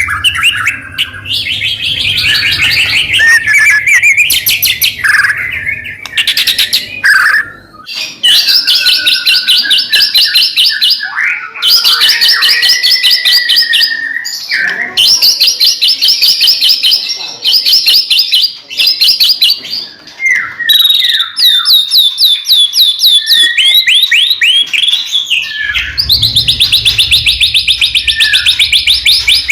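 White-rumped shama (murai batu) in full 'gacor' song: loud, continuous runs of fast rattling trills of repeated notes, broken by clear whistled glides and quick rising-and-falling sweeps, with only brief pauses.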